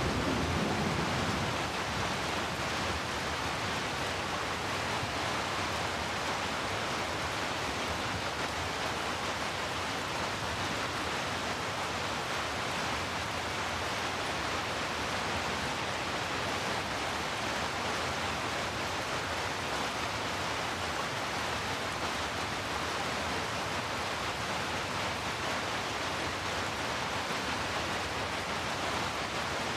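Steady rain as an even, unbroken hiss. The last of a thunder rumble dies away about a second in.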